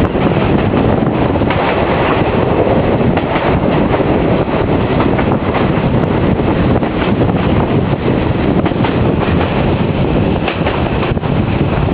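Passenger train running along the track, heard from aboard: a loud, steady rumble of wheels on rails and carriage noise.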